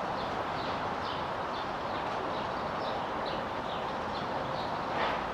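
Bird chirping in short, high, falling notes about two or three times a second, over a steady background hiss.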